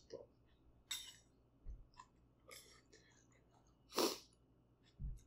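Quiet chewing and mouth sounds of a person eating beef hot pot, with a few short noisy sounds, the loudest about four seconds in, and a couple of soft low thumps.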